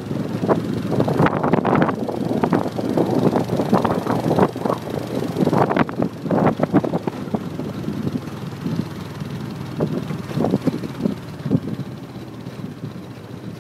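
Wind buffeting the microphone on a moving motorbike over a steady low rumble of the ride, in irregular gusts that ease off a little near the end.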